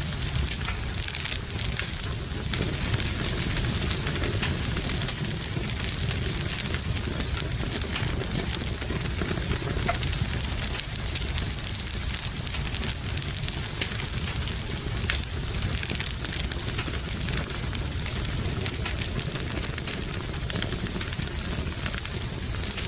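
Wood fire in a fireplace crackling steadily, with many small sharp pops over an even hiss of rain.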